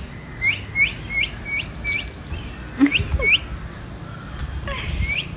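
A bird chirping: a quick run of short rising notes, about three a second, then a few more scattered ones, with a brief lower sound just under three seconds in.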